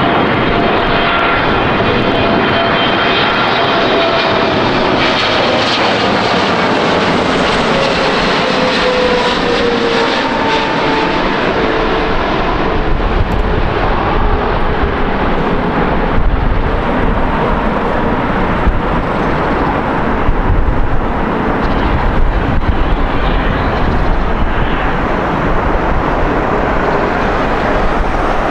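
Jet airliner's turbofan engines passing close by: a loud rushing roar whose whining tones fall in pitch as it goes past during the first ten seconds or so, then a broad roar with a deep rumble.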